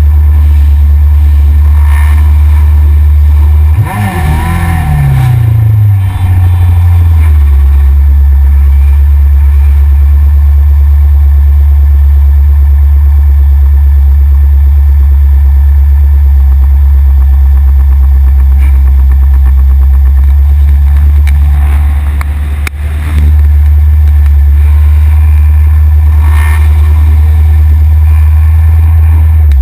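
Yamaha XJR motorcycle being ridden, heard from a front-mounted action camera: heavy, steady low wind rumble on the microphone over the running inline-four engine. About four seconds in, the engine note falls in pitch over a couple of seconds as the rider rolls off the throttle.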